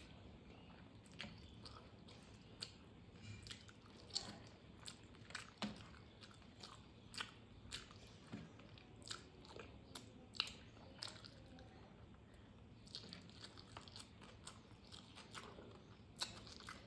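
A person chewing a rice meal: quiet, close mouth sounds with short sharp clicks and smacks at irregular intervals, about one or two a second.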